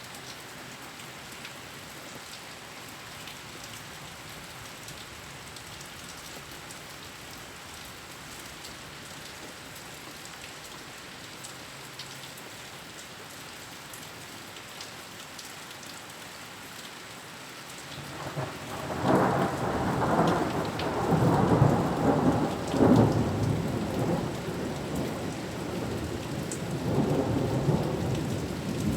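Steady rain falling, then about two-thirds of the way through a long roll of thunder rumbles in and swells loudly several times before easing, still rumbling at the end.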